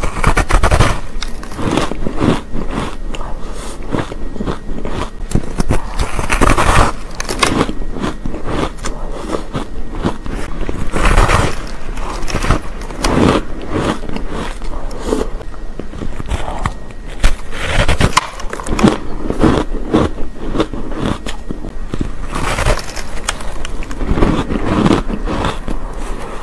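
Close-miked biting and chewing of a soft cake with a crunchy crust: dense crackling crunches throughout, with louder bursts every few seconds as fresh bites are taken.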